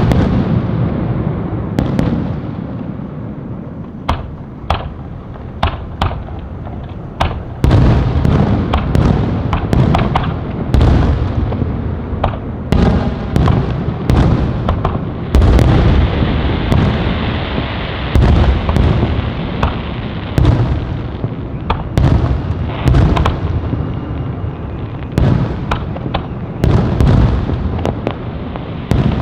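Aerial fireworks exploding in a rapid, continuous barrage: many sharp bangs and deep booms with rolling echoes and crackle, sparser for the first few seconds and near-constant from about eight seconds in.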